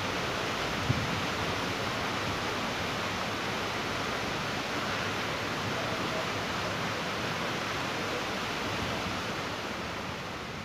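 Steady rushing noise of wind and the rumble of a KRL commuter train (ex–Tokyo Metro 05 series electric multiple unit) rolling away along the track, starting to fade near the end.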